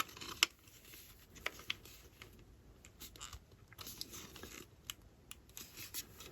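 Small plastic model-kit parts being handled and pushed into place: a string of light clicks and taps, with a few short scraping rustles. The sharpest click comes just under half a second in.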